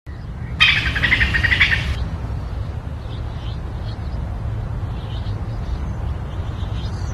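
A songbird's rapid trill, starting about half a second in and lasting just over a second, followed by faint scattered chirps over a steady low background rumble.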